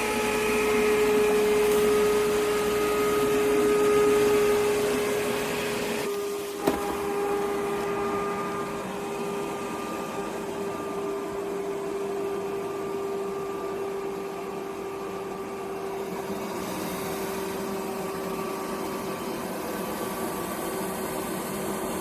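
iRobot Roomba 105 robot vacuum running: a steady motor whine over suction noise, a little louder in the first few seconds, with one sharp click about seven seconds in.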